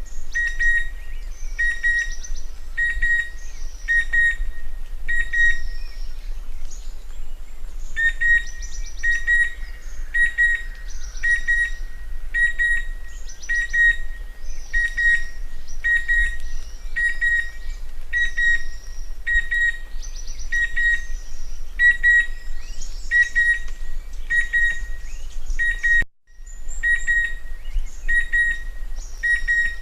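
Chestnut-winged cuckoo calling: a steady series of short, clear whistled notes, repeated a little more than once a second. Fainter, higher chirps from other birds sit behind the calls, and the sound breaks off for a moment near the end.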